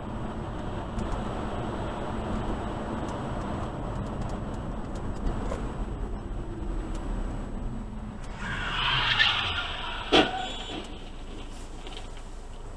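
Steady rumble of a car driving, then a brief squeal about eight seconds in, followed a second later by one sharp bang.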